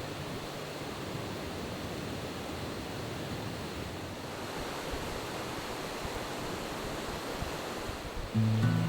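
Steady rushing outdoor noise with no distinct events, with music coming back in near the end.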